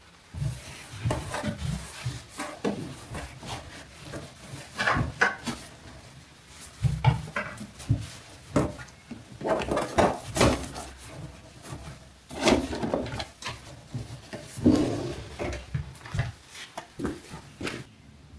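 Household objects being picked up, moved and set down while tidying: a long run of light knocks, clacks and short rubbing sounds, irregularly spaced.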